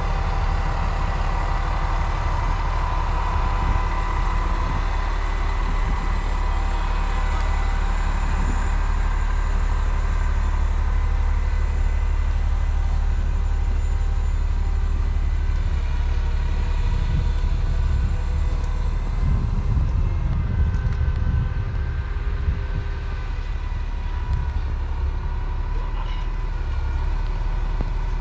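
Crane truck's engine running steadily under load as it powers the crane during a lift: a constant low rumble with a steady whine above it.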